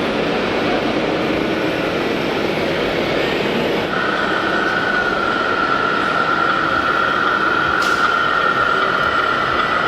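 A radio-controlled construction model running with a steady mechanical noise, and a high, steady motor whine that comes in about four seconds in and holds.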